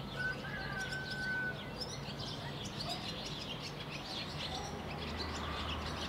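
Birds chirping, with many short high chirps throughout and one clear whistled note held for about a second near the start.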